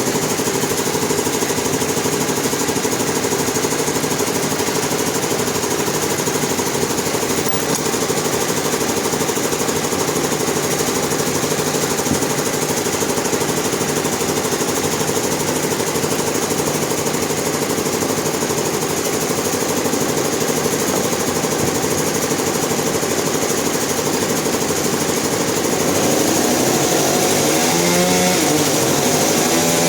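Sawmill machinery running steadily with a fast mechanical rattle. About 26 s in it gets a little louder and its pitch wavers up and down.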